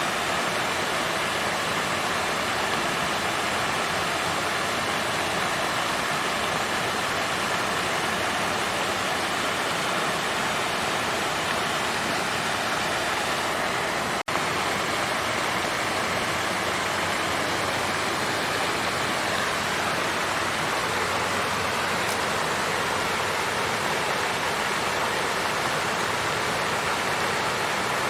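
Water fountain's flowing water, a steady, even rush, with a momentary dropout about halfway through.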